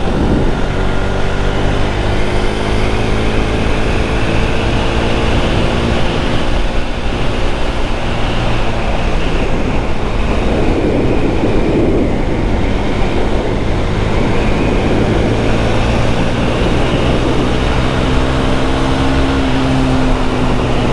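KTM 390 Duke's single-cylinder engine running as the motorcycle is ridden, its note drifting slowly down in pitch, over steady wind and road noise.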